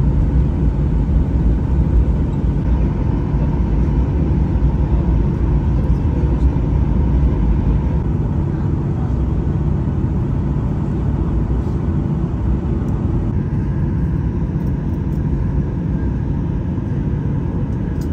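Cabin noise of a Boeing 737-900ER taxiing after landing: a steady low rumble from the engines at idle, easing slightly about three-quarters of the way through.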